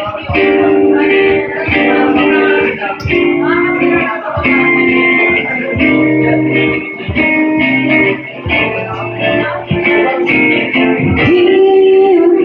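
Acoustic guitar playing an instrumental passage between sung lines, with chords struck about every second and a half and left to ring.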